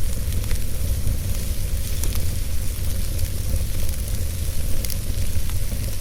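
Wood fire burning in a fireplace: a steady low rumble and hiss of flames, with scattered sharp crackles and pops from the burning logs.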